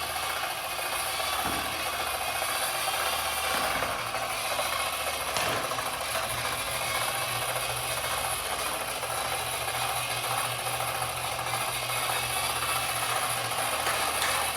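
Treadmill running, its moving belt giving a steady rubbing hiss over a low motor hum.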